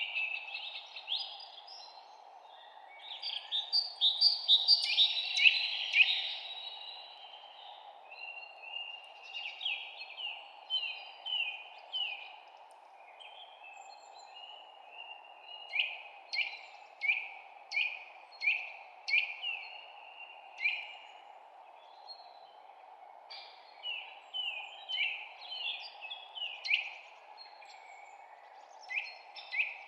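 Songbirds chirping: runs of short, quickly falling chirps repeated in quick series, busiest and loudest a few seconds in, over a steady low background hiss.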